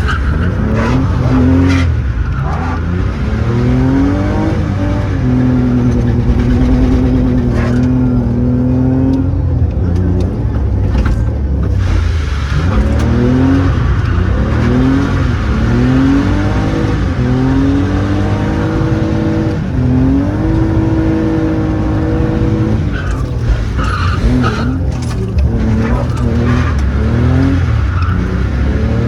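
Car engine driven hard, its pitch climbing again and again as it accelerates out of bends and holding at high revs for a few seconds at a time, with some tyre squeal.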